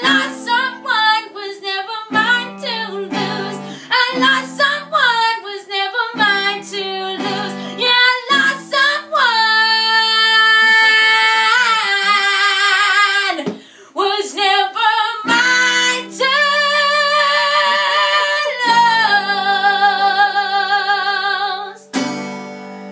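A woman sings wordless, long-held notes with vibrato over a guitar, closing on a final strummed chord near the end that rings out and fades.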